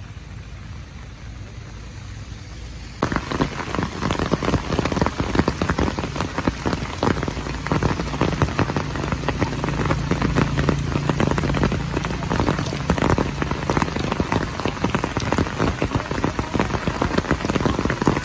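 Heavy rain pattering densely on a hard surface, a thick spatter of drops. About three seconds in it suddenly gets much louder and closer.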